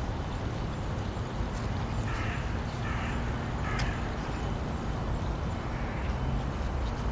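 Three short, rough bird calls about two, three and three and a half seconds in, over a steady low outdoor rumble.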